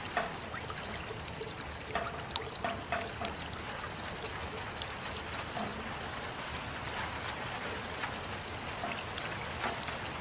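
Rain falling steadily: an even hiss with scattered louder drips and splashes.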